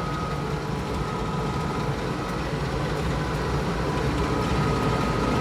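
International Harvester 1086 tractor's turbocharged six-cylinder diesel running steadily under load, heard from inside the cab, with a thin steady whine above the engine drone.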